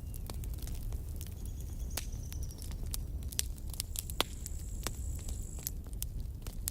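Campfire burning: wood crackling and popping in irregular sharp snaps over a steady low rumble of the flames, with a louder pop about four seconds in and a faint high whistle now and then.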